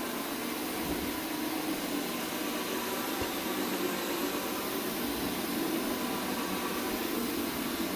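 Counter-rotating brush carpet machine running steadily as it scrubs over the carpet, a constant motor hum with brush noise.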